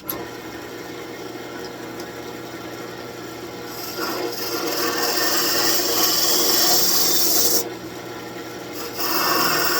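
Wood lathe running with a gouge hollowing out the end of a spinning birch branch: a steady motor hum under the scraping hiss of the cut, which gets louder about four seconds in, breaks off briefly near the end, then resumes.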